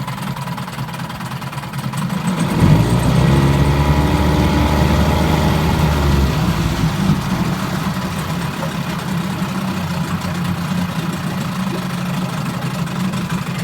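1976 Evinrude 15 hp two-cylinder two-stroke outboard running in a test tank in reverse gear. About two and a half seconds in it runs louder and deeper for around three and a half seconds, then settles back to a steady run.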